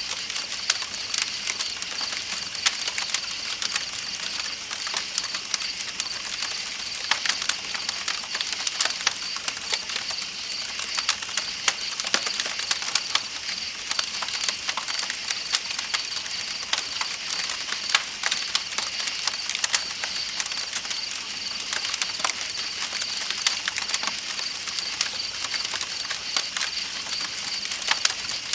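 Campfire crackling with many small sharp pops, over a steady rushing hiss of flowing river water and a constant high-pitched pulsing chirr of night insects.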